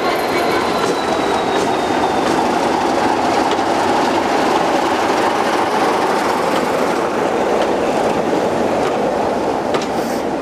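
Train running past at close range: a loud, steady rumble of wheels on rail with scattered clicks from the track and a faint high squeal near the start.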